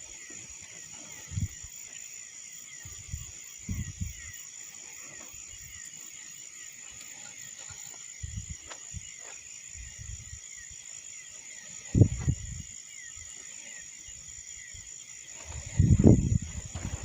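A steady chorus of crickets trilling, with low gusts of wind buffeting the microphone now and then, strongest about twelve and sixteen seconds in.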